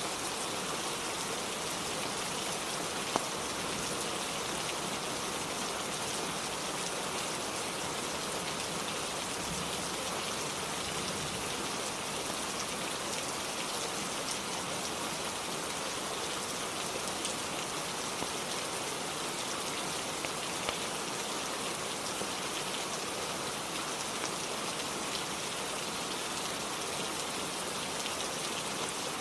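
Steady rainfall on a roof, an even hiss of many drops, with a few isolated sharp clicks, the clearest about three seconds in.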